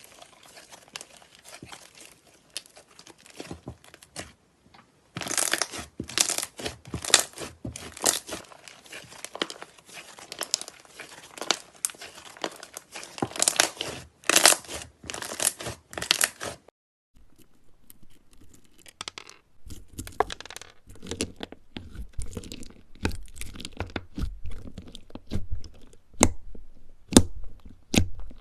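Slime being squeezed and stretched by hand, giving a dense run of crackling, tearing and popping. About two-thirds of the way through it breaks off and gives way to sparser, duller pops with more low end, as from a different, thicker slime being pressed.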